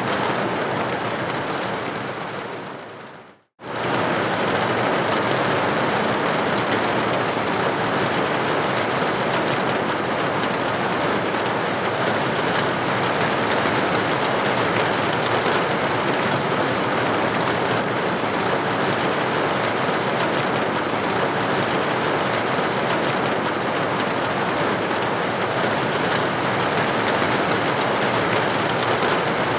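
Steady rain falling on a hard surface, an even hiss. About two seconds in it fades away to near silence, then comes straight back at full strength a moment later.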